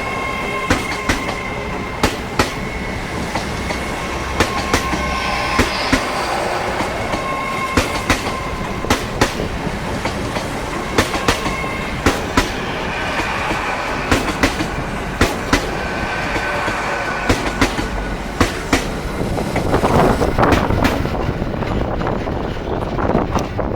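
Hitachi Azuma train pulling away, its wheels clicking over rail joints about twice a second, with a faint thin squeal from the wheels. A louder rushing noise builds near the end.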